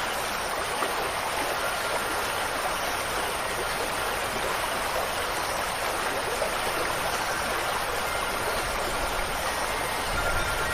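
Steady, even rush of running water, like a stream. Near the end, a few faint held wind-chime tones begin to ring over it.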